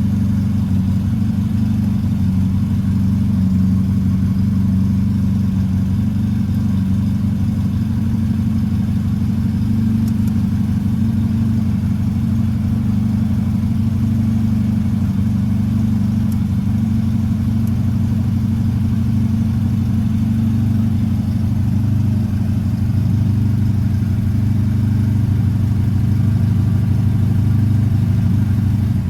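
1967 Volkswagen Beetle's air-cooled flat-four engine idling steadily after a cold start.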